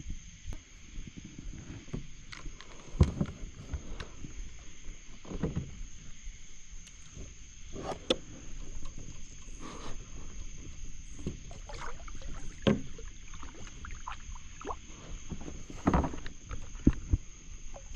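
Irregular knocks and bumps on a kayak, a few seconds apart, as a large catfish is handled aboard, with some water movement between them.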